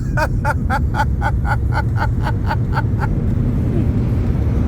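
Automatic car wash running around the vehicle: a steady low rumble with water spray hissing, heard through an open window. Over the first three seconds a rapid run of short pitched voice-like sounds, about four a second, sits on top.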